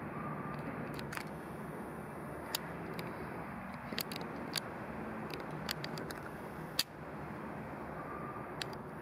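Steady outdoor background hum with scattered short sharp clicks, the sharpest nearly seven seconds in.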